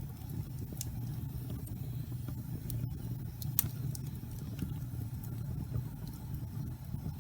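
Wood fire burning in a fireplace: a steady low rumble of flames with scattered sharp crackles and pops, the loudest about three and a half seconds in.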